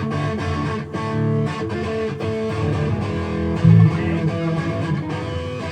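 Guitar playing a 12-bar blues riff in A, a line walking chromatically up from the A note, with plucked notes one after another and a loud low note about two thirds of the way in.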